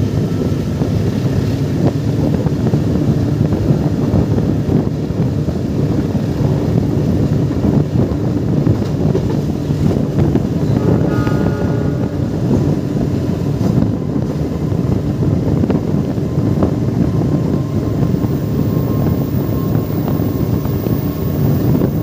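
Steady rumbling rush of a moving train, with wind buffeting the microphone; a brief higher tone sounds about halfway through.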